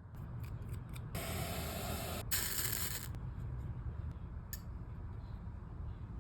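Small clicks from handling a flute during pad replacement. About a second in come two hissing bursts, each lasting about a second, one right after the other.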